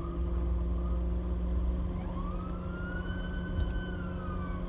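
Police car siren: a short rising whoop at the start, then about two seconds in a long wail that rises, holds and falls. A low, steady rumble runs underneath.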